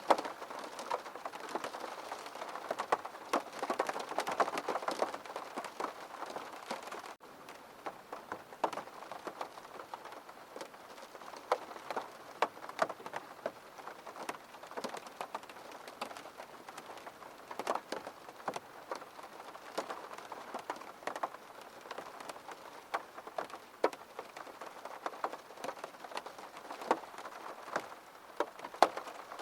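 Rain falling on a window: a steady hiss with many irregular taps of individual drops striking the glass. There is a brief break about seven seconds in, after which it is slightly softer.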